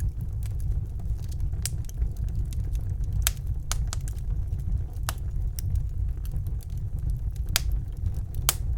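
Wood fire crackling in a fireplace: a steady low rumble of burning with sharp pops every second or two and fainter ticks between.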